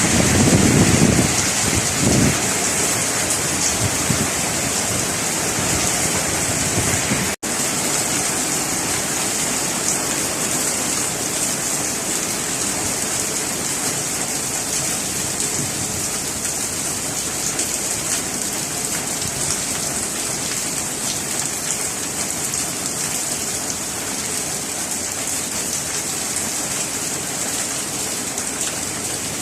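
Heavy rain pouring steadily, with a low rumble in the first two seconds. The sound cuts out for an instant about seven seconds in.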